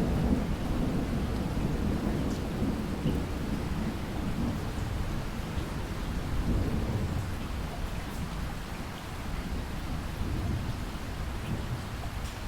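Steady rain with a low rolling rumble of thunder, heaviest in the first few seconds, swelling again about halfway through, then easing off.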